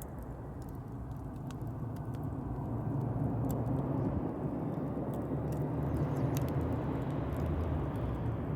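Campfire burning: scattered sharp crackles and pops of burning wood over a steady low rumble that grows a little louder about three seconds in.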